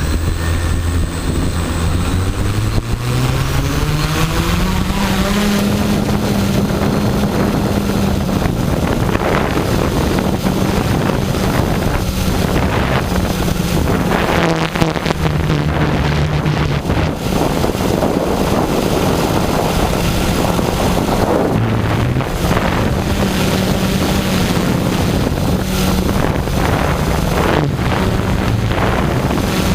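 Multirotor drone's electric motors and propellers running, their hum rising in pitch over the first few seconds and then holding with small shifts in pitch. Heavy wind buffets the microphone throughout.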